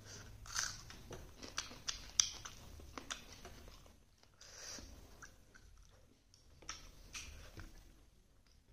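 Chewing a mouthful of rice and jackfruit curry, with short crisp crunching clicks that come thickest in the first three seconds and again in shorter spells later on.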